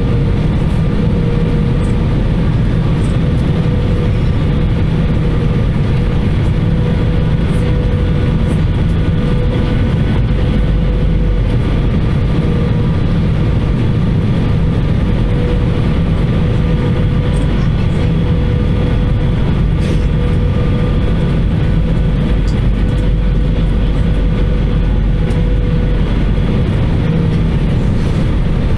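Steady cabin noise inside an Airbus A320-214 with CFM56 engines: an even, loud low rumble with a steady whine held over it.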